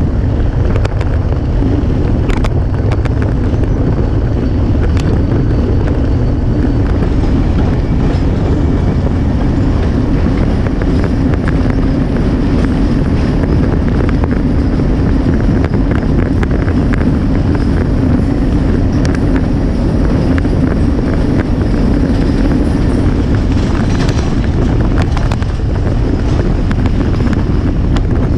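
Steady wind rushing over a camera on a bicycle moving at speed, over the steady rumble of a diesel-hauled passenger train running alongside on the rails.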